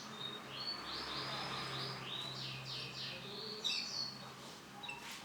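Male canary singing: short runs of rapid, repeated high chirping notes, each run of a different note type following straight on from the last.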